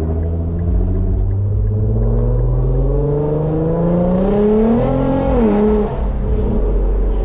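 Infiniti Q50's V6 engine and exhaust under acceleration, the pitch climbing steadily for about five seconds, then dropping back and settling into a steady lower drone.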